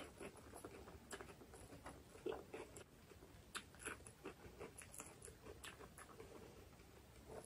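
Faint, close-miked chewing of a mouthful of rice and spinach dal eaten by hand: an irregular scatter of soft, wet mouth clicks and smacks.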